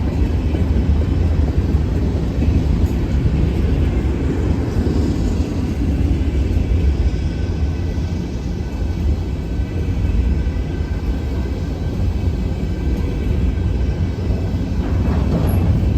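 Freight train running past, a steady low rumble with faint high steady tones above it.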